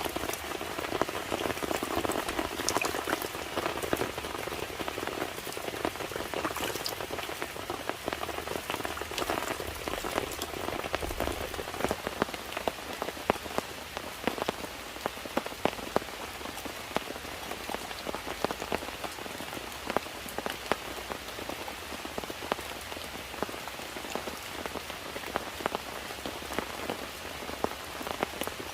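Steady rain falling, with many drops landing close by as sharp separate taps; it is a little heavier in the first half.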